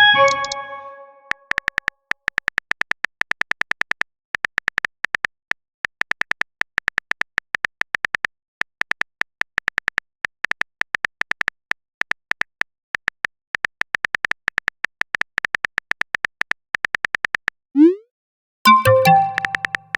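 Rapid phone-keyboard typing clicks, a sound effect for a message being typed in a chat. A ringing message-notification chime at the start, a short rising swoop at about 18 s, and another notification chime just after it.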